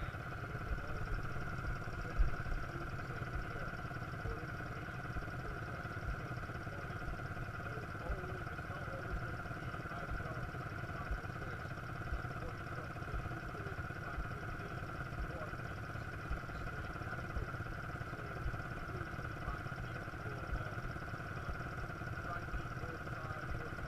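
Quad bike engine running steadily, with a constant whine and a low rumble carrying small irregular thumps; one louder thump about two seconds in.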